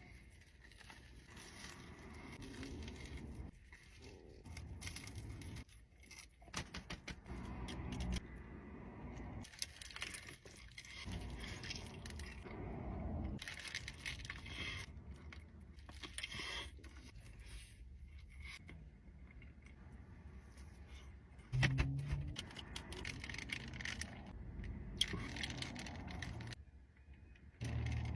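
Food wrappers and packaging being handled at close range: irregular crinkling, tearing and small scrapes and clicks, with a louder bump about three-quarters of the way through.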